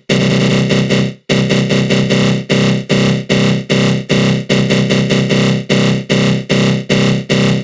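Synthesized attack growl from a GMS synth with a flanger: a loud, harsh buzzing tone. After a short break about a second in, it is chopped into rapid pulses, about three a second.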